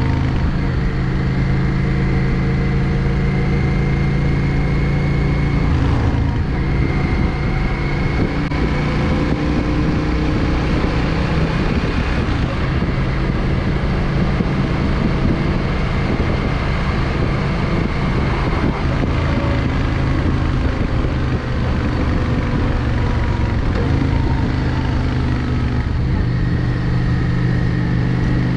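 Yamaha XVS 650 Drag Star's air-cooled V-twin engine running on the road, heard from the bike. The note is steady at first, turns rougher and less even from about six seconds in, and settles back to a steady note near the end.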